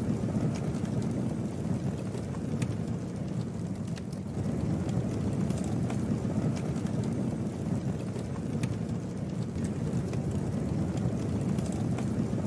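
Campfire burning with a steady low rumble of flames and scattered sharp crackles and pops from the burning wood.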